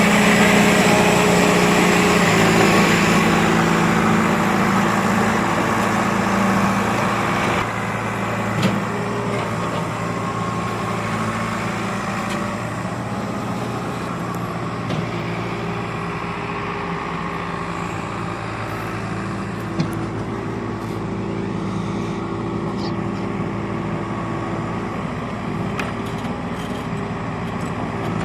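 Heavy machine's diesel engine running steadily, its note easing and getting a little quieter about seven seconds in, with a few faint clicks later on.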